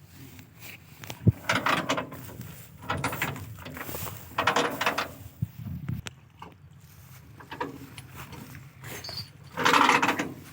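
Tractor engine running with a steady low hum, broken by several louder, noisy surges.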